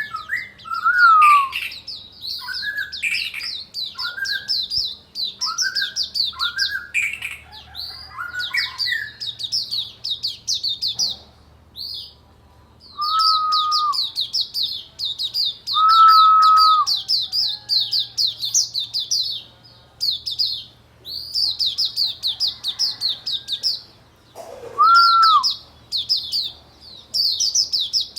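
White-eye (pleci) singing: long runs of a very fast, high twittering song broken by short pauses, with a lower whistled note now and then.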